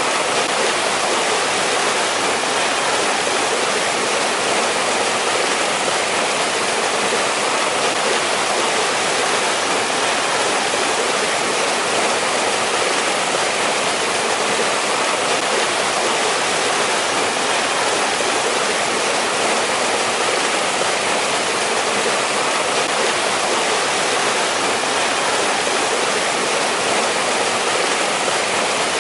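Mountain stream in a winter valley rushing over rocks, a steady, even water noise with no pauses or changes.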